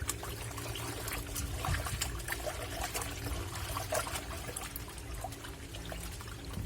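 Water splashing and trickling in the tub of a Black&Decker washing machine, over a steady low hum.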